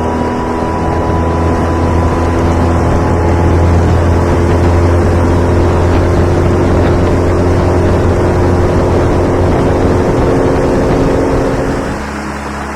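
Small boat's outboard motor running steadily under way. Near the end it eases off to a lower, quieter running sound.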